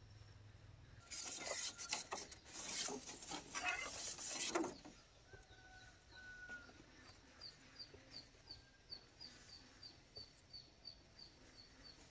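Loud rustling and scraping for about four seconds, then a small bird chirping over and over, short high chirps about three a second.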